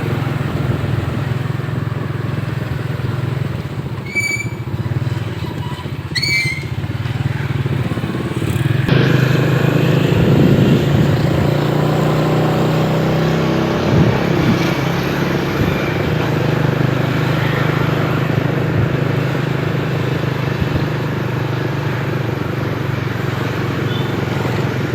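Motorcycle engine running steadily while riding, growing louder about nine seconds in. Two brief high-pitched chirps come about four and six seconds in.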